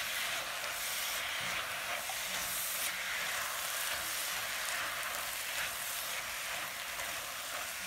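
Diced vegetables and crumbled plant-based mince sizzling in an enameled cast-iron Dutch oven as a silicone spatula stirs them: a steady frying hiss with the scrape and rustle of the stirring.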